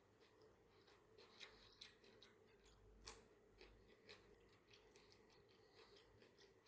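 Faint scattered clicks and light crunches of someone eating a salad with cucumber, with one sharper click about three seconds in.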